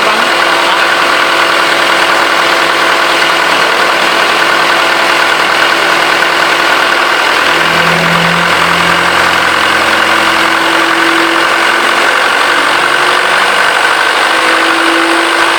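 Perkins L4 four-cylinder four-stroke diesel engine running steadily.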